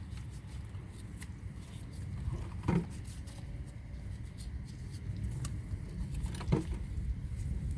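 C-clamp being cranked to push a rear brake caliper piston back into its bore, over a steady low rumble, with two short creaks several seconds apart.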